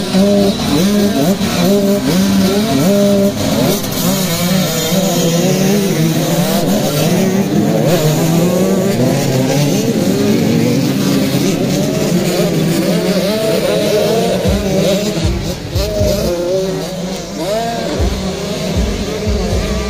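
Several motocross bikes' engines revving up and down as they ride the track, their pitches rising and falling and overlapping.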